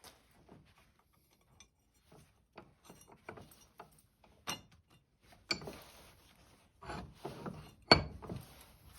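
Wooden parts being handled and fitted together: irregular knocks, clicks and rubbing, growing busier in the second half, with one sharp knock near the end.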